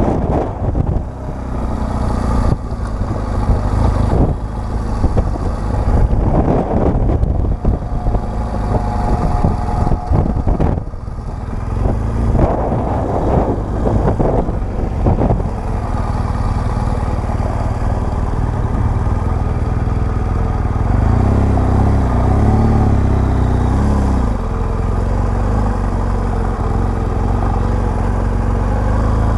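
BMW R1200GS Adventure motorcycle running, its boxer-twin engine under heavy wind buffeting on the microphone for the first half. From about halfway the buffeting eases and the engine runs steadily.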